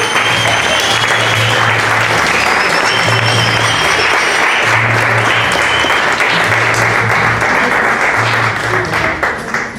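Audience applauding steadily over background music. The applause dies away near the end.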